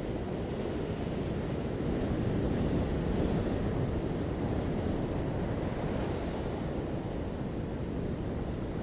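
Ocean surf: a steady rush of waves that swells to a peak about three seconds in and slowly eases off.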